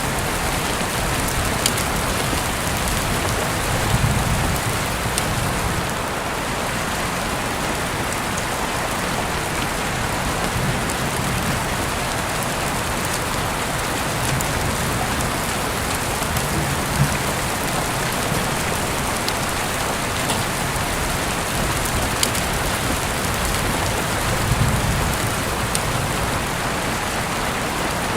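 Heavy rain falling steadily, with scattered individual drops ticking against a surface and a few soft low thuds.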